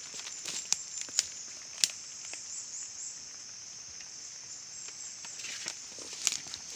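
Outdoor ambience with a steady, high insect drone, broken by a few sharp clicks or knocks: three in the first two seconds and a couple more near the end.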